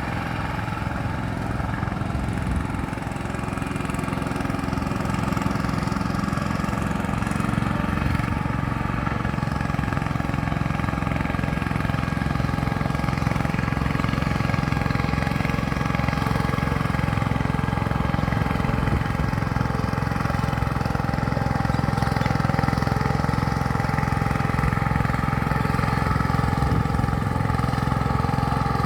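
Mini tractor engine running steadily with an even, pulsing beat, growing slightly louder over the first several seconds.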